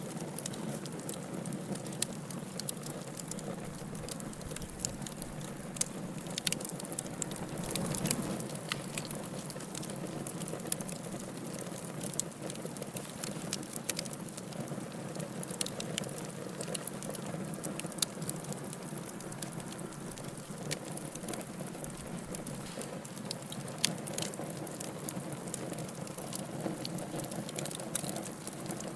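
Wood fire burning in a fireplace, crackling steadily with frequent sharp pops and snaps over a low rushing rumble of flame.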